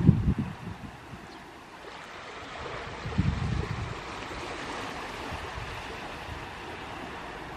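Sea waves washing onto a sandy beach: a steady surf hiss, with low rumbling surges at the start and again about three seconds in.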